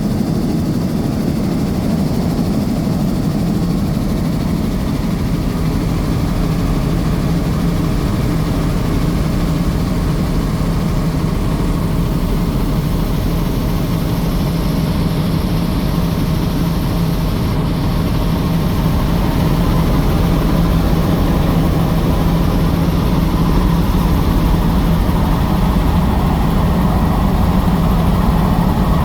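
Helicopter engine and rotor running in a steady drone, a little louder from about twenty seconds in.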